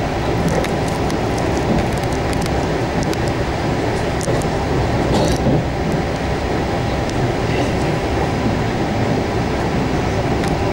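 A moving passenger train heard from inside the carriage: a steady rumble of wheels on rails, with occasional light clicks and knocks.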